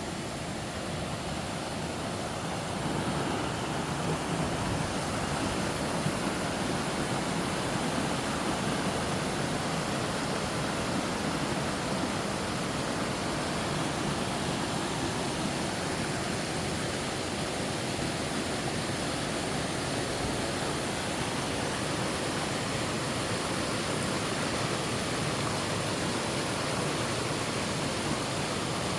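Waterfall: a steady rush of falling water that builds a little over the first few seconds and then holds.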